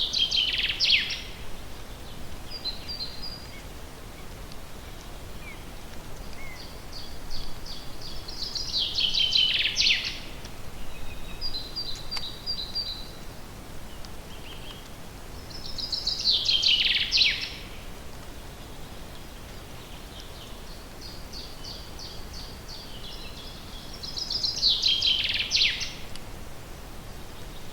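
A songbird singing the same song phrase four times, about every eight seconds: each is a quick run of high notes that ends in a falling flourish. Short, softer note groups come between the phrases, over a faint steady outdoor hiss.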